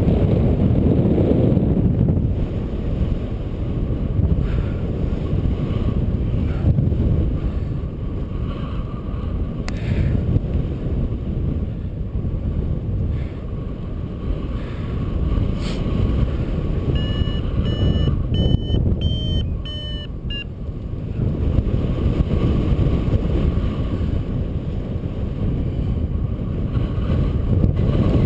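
Strong wind buffeting the microphone in flight, with a flight variometer beeping in quick pitched pulses for about three seconds past the middle.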